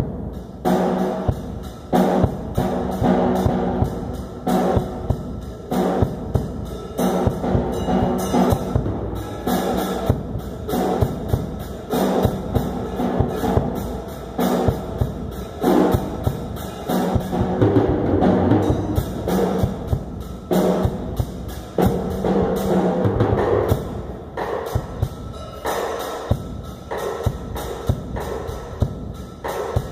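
Drum kit playing a repeating rhythm of sharp strikes, several per second, with pitched tones sounding underneath.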